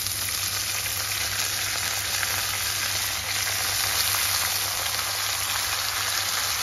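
Potatoes and freshly added chopped dill leaves sizzling in hot mustard oil in an aluminium kadhai, a steady frying crackle with small pops as the greens are turned in the pan.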